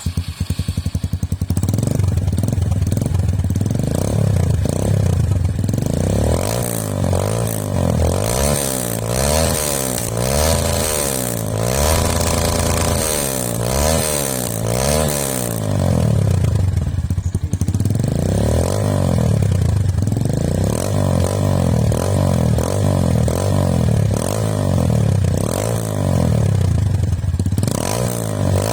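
Kawasaki D-Tracker 150's single-cylinder four-stroke engine running through an aftermarket Brave MX Pro stainless-steel exhaust, revved up and dropped back to idle over and over. A higher rev is held briefly about halfway through.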